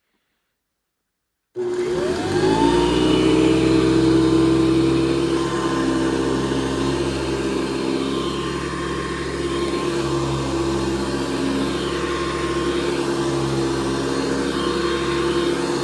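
1977 Hoover Convertible U4401 upright vacuum cleaner switched on about a second and a half in, its motor whine rising as it spins up, then running steadily.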